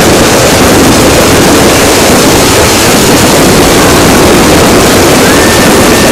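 Fireworks going off in a continuous dense crackle of bangs, so loud that the recording is overloaded into an unbroken distorted roar. A thin whistle sounds briefly near the end.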